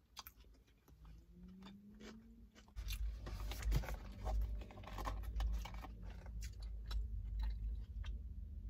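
Close-up chewing of a crunchy toasted-flour-tortilla steak fajita taco, with crisp crunching clicks and a short rising hum. From about three seconds in, louder rustling and low bumping as a carton drink is handled and sipped, with the chewing going on.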